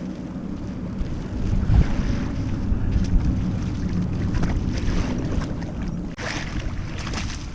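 Wind buffeting the microphone with water lapping against a kayak hull, and a couple of splashy swishes near the end.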